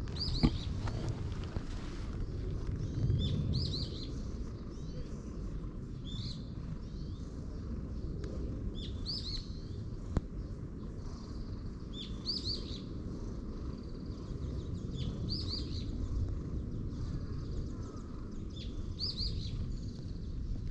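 A songbird singing the same short chirping phrase over and over, about once every three seconds, over a steady low outdoor rumble. Two sharp clicks stand out, a loud one about half a second in and a softer one about halfway.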